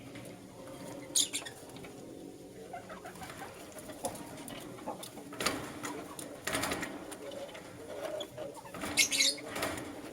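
Lovebirds chirping: a sharp high chirp about a second in and a quick burst of chirps near the end, with softer calls and rustling between.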